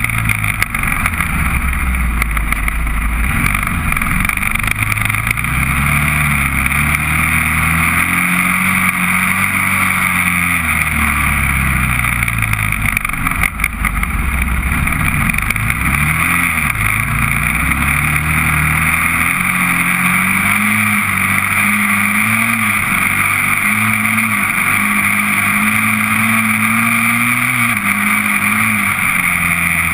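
Honda TRX400EX quad's single-cylinder four-stroke engine under way, its pitch repeatedly rising as it is revved and falling as the throttle is let off, with a short drop about halfway through, over a steady hiss.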